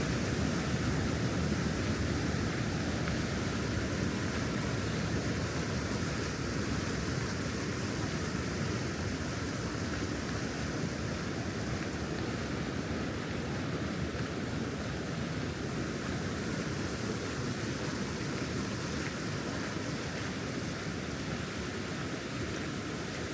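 Steady outdoor rushing noise with no distinct events, easing slightly in level toward the end.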